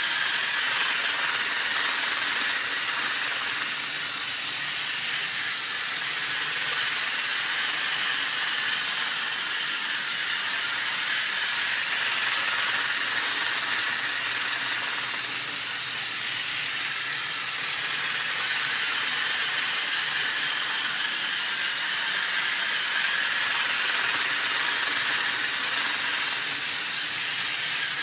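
Motorized toy train running on plastic track: a steady, high hiss-like whir from its small motor and wheels, unbroken and even in level.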